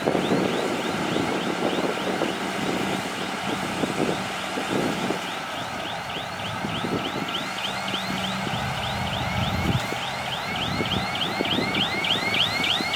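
Heavy earthmoving machinery engine running with an uneven rumble. Over it comes a steady run of high, curved chirps, about three a second, getting faster and louder toward the end.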